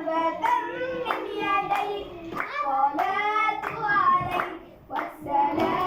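A young solo voice singing an Arabic nasheed, a devotional song praising the Prophet, in a flowing melismatic line. Short sharp claps or taps sound here and there.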